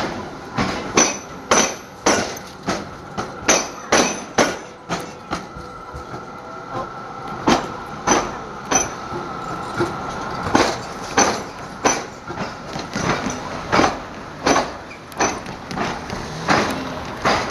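Steel wheels of a rail vehicle banging over the gaps of a tram square, a diamond crossing where tram tracks cross the railway at grade. The bangs come at about one to two a second, with a faint wheel squeal in the middle.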